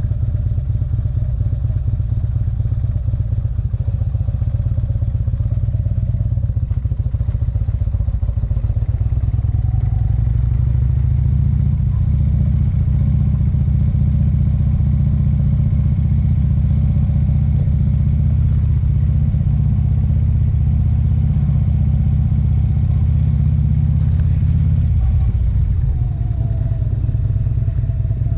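Motorcycle engine running steadily under way, heard from on the bike. The engine note grows louder about a third of the way in and eases off shortly before the end.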